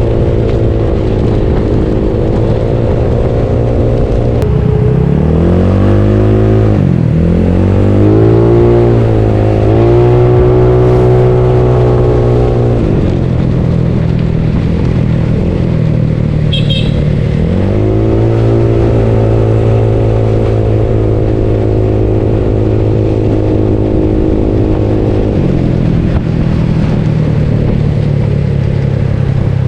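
Bored-up Yamaha Mio scooter engine running on the move. Its pitch drops as the throttle is eased off about six seconds in, again near thirteen seconds and near twenty-five seconds, and climbs back each time the throttle is opened.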